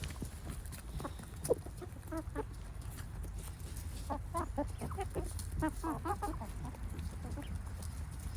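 Chickens clucking in short runs of quick notes, a few bursts over the seconds, with a steady low rumble underneath.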